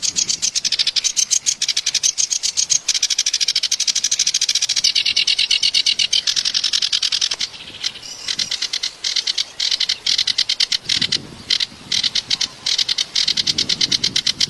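Kerak basi (reed warbler) singing a fast, harsh chattering song of rapid repeated notes. It breaks off briefly about halfway through, then resumes in shorter bursts.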